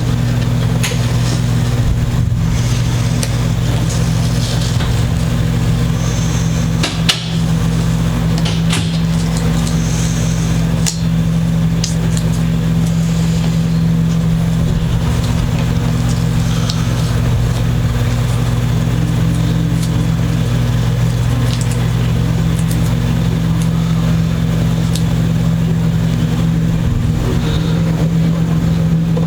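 Steady mechanical hum of a running motor or fan, unchanging throughout, with occasional small clicks and scrapes over it.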